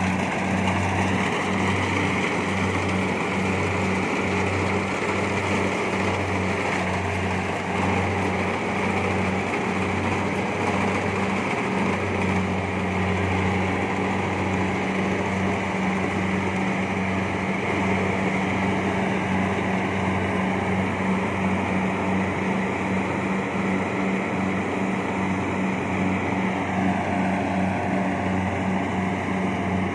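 Kubota DC70plus rice combine harvester running at work, a steady diesel engine drone with a regular pulsing and a broad mechanical hum from the cutting and threshing.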